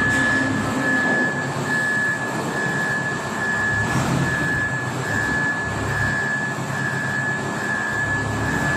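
Turbocharged diesel engine of a small W118 wheel loader running steadily, with a constant high-pitched whine over the low engine note.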